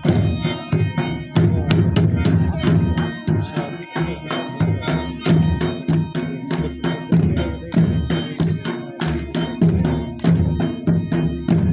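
Live folk music for an attan dance: quick, regular drum strokes over steady held melodic notes.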